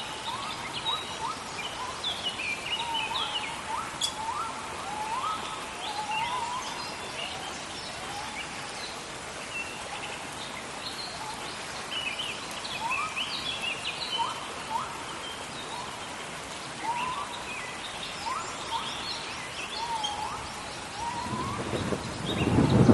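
Rainforest rain falling steadily while birds call over it in repeated short rising chirps. Near the end a roll of thunder builds and grows loud.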